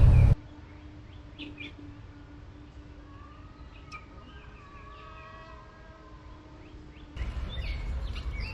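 Birds chirping faintly over a steady low hum, with wind buffeting the microphone briefly at the start and again from near the end.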